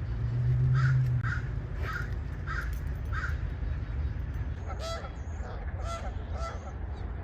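Geese honking, a run of about five short calls in quick succession, then more honks after a short gap. A low rumble swells under the first calls and is the loudest thing about a second in.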